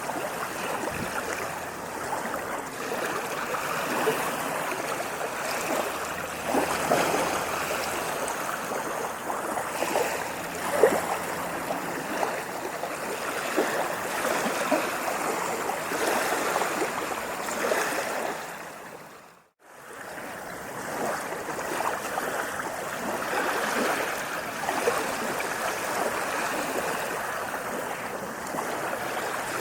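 Sea waves washing and fizzing on a shore in a continuous rush of water. About two-thirds of the way through, the sound fades out to silence for a moment, then fades back in.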